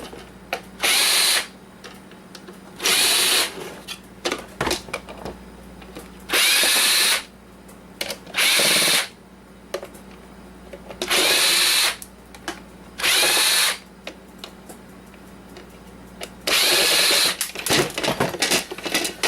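Power drill backing screws out of a coffee maker's plastic housing, its motor whining in about seven short bursts, with light clicks and rattles between them.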